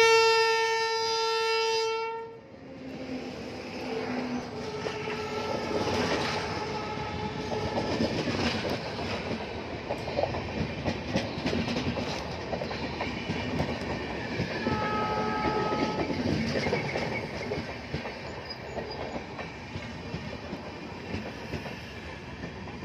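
An Indian Railways electric locomotive sounds one long, loud horn blast that cuts off about two seconds in. Its passenger train then runs past close by, a steady rumble with rapid clickety-clack of wheels over the rail joints, and two fainter tones come through partway.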